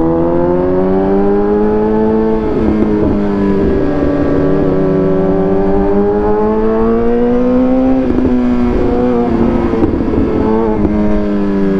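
Suzuki GSX-R750 inline-four engine running at a steady moderate speed, its pitch gently rising and falling with light throttle changes. Wind rumble on the microphone runs underneath.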